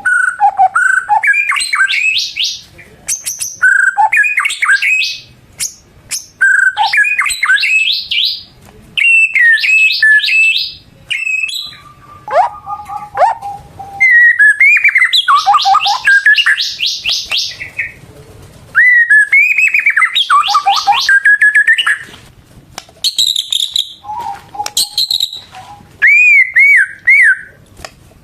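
White-rumped shama singing loudly in full song: phrases of varied whistled notes, many running into fast strings of repeated notes, with short pauses between phrases.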